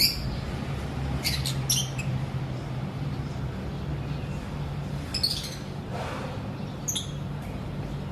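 Lovebirds giving short, shrill chirps and squawks, five or so calls scattered irregularly, over a steady low hum.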